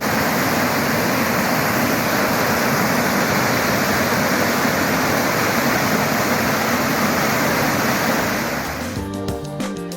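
Water rushing, a loud steady roar that cuts in suddenly, then gives way to background music about nine seconds in.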